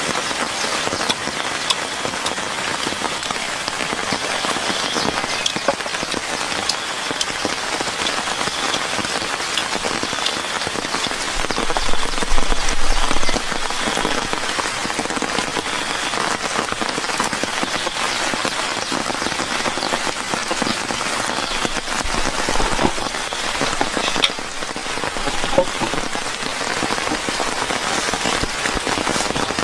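Steady rain falling, a dense spread of small drop impacts, with a brief louder, deeper swell about twelve seconds in.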